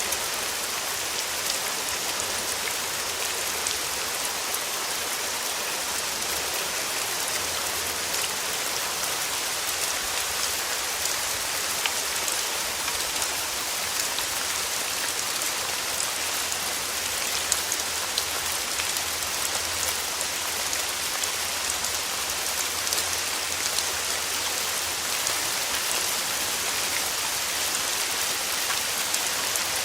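Steady rain falling on surfaces, an even hiss dotted with many small drop ticks.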